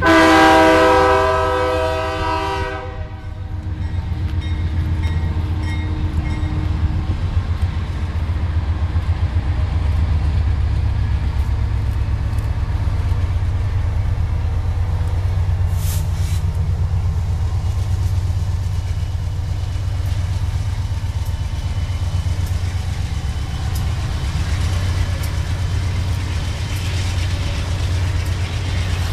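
A locomotive horn sounds for about three seconds at the start. A steady low diesel rumble follows as a freight train led by BNSF diesel locomotives approaches, and wheel and rail noise rises near the end as the locomotives pass close by.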